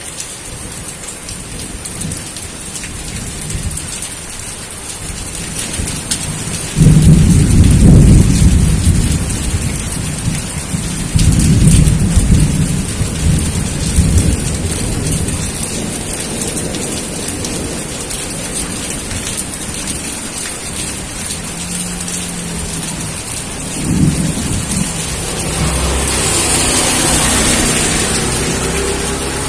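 Steady rain with thunder. A sudden loud clap about seven seconds in rumbles on for a few seconds, another follows about eleven seconds in, and a smaller one comes near the end.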